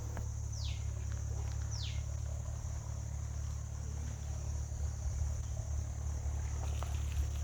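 Natural ambience: a steady high-pitched drone of insects, with two quick downward-sliding bird whistles early on about a second apart, over a steady low rumble.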